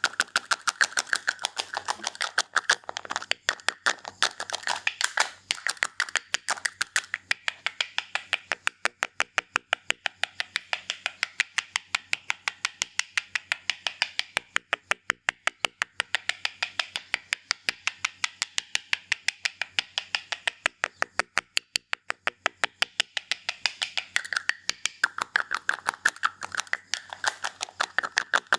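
Barber's scissors snipping fast in a steady rhythm, about five snips a second, with a hiss in stretches.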